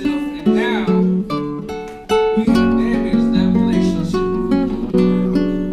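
Acoustic guitar music: plucked and strummed chords with notes ringing on.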